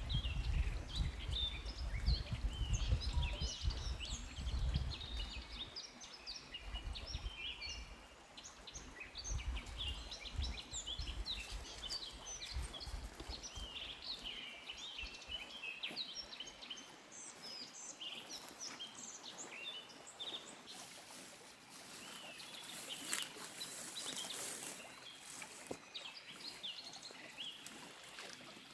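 Many small birds chirping and singing in a dense chorus of short calls. A low rumble is heard under them for the first several seconds.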